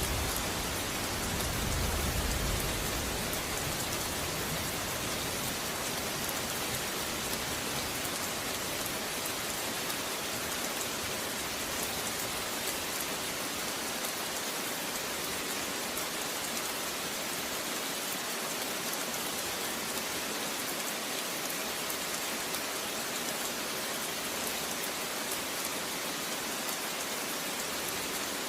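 Steady rain falling, an even hiss of many drops on surfaces. A low rumble, the tail end of thunder, dies away in the first couple of seconds.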